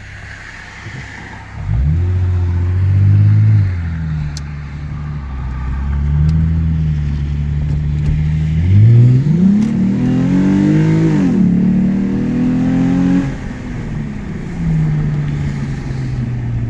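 2008 Lexus IS250 AWD's 2.5-litre V6 with the mufflers deleted, accelerating hard from about two seconds in, its pitch climbing and then dropping at each automatic upshift. A second hard pull comes at about nine seconds, before it eases to a steadier, falling note. Heard from inside the car with the windows down.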